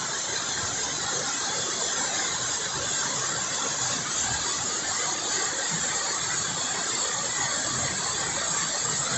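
Waterfall in spate pouring into its pool close up, a steady, loud rush of falling water.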